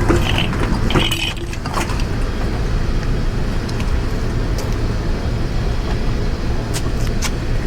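A few metal clicks and clinks from parts being handled during disassembly of a motorcycle, over a steady low rumble.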